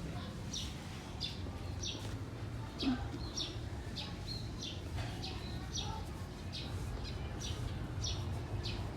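A small bird chirping over and over, short high chirps about every half second or so, over a low steady hum.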